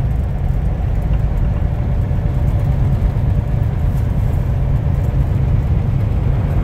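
Steady low drone of a semi-truck's engine and road noise, heard inside the cab while driving at speed.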